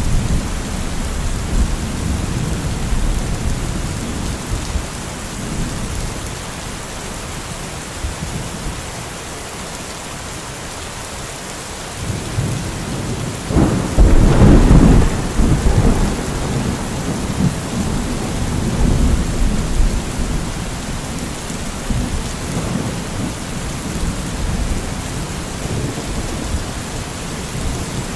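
Steady heavy rain with thunder rumbling low throughout. About halfway through comes a loud thunderclap that rolls off over a couple of seconds.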